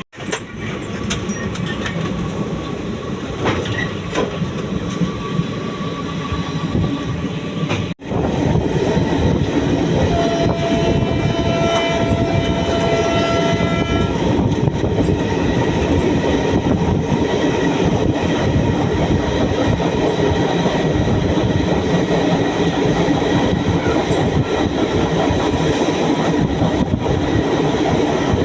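Indian Railways train running with a steady rumble of wheels on track. About ten seconds in, the train horn sounds one steady held note for about four seconds.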